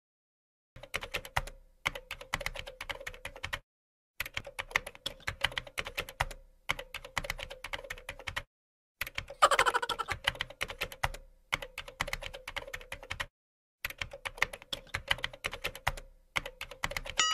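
Keyboard-typing sound effect: rapid clicking in runs of about two seconds, with short gaps between runs, matching text typed out line by line. About halfway through, a brief, louder pitched sound with a bending pitch cuts across the clicks, and a wavering pitched sound starts at the very end.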